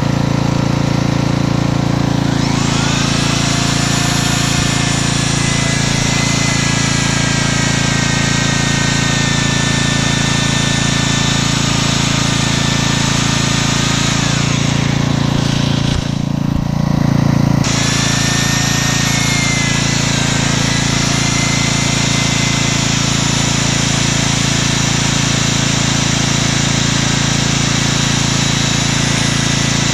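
Water-fed electric core drill grinding through a concrete wall: its motor winds up about two and a half seconds in and runs under load, the whine sagging and recovering, stops for about two seconds past the middle, then starts cutting again. A generator engine hums steadily underneath.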